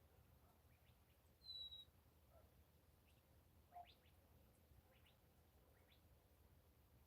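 Faint dawn birdsong over a faint low hum: one clear, slightly falling whistled note about one and a half seconds in, then a few faint short chirps.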